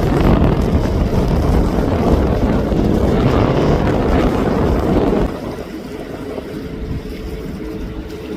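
Jet airliner engine noise mixed with wind buffeting the microphone. About five seconds in it drops suddenly to a quieter, steady engine hum with a faint tone.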